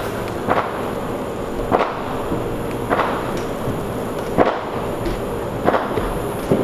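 Firecrackers popping, single sharp cracks about every second or so over steady background noise.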